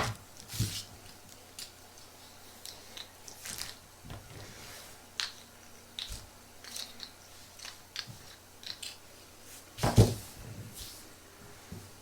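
Close-up handling noises: scattered small clicks, crinkles and taps, with a louder knock at the start and another about ten seconds in.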